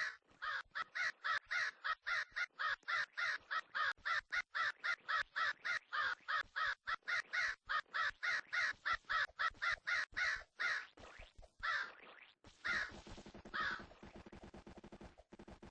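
A bird giving a long, fast, even series of harsh calls, about four a second. About three quarters of the way through the calls give way to a lower, faster rattle that cuts off abruptly.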